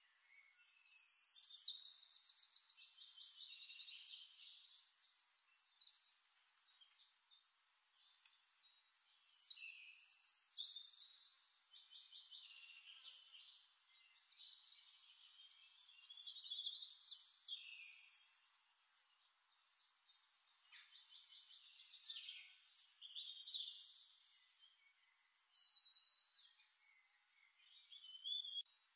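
Songbirds singing, a phrase every few seconds, each made of rapid high trills and chirps.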